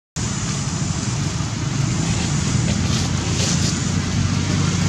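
Steady engine hum with wind rushing over the microphone, as from a moving motor vehicle.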